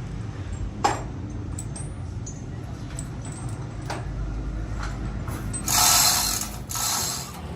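Workshop machinery running with a steady low hum and a few sharp metallic clicks, then two loud bursts of hiss near the end.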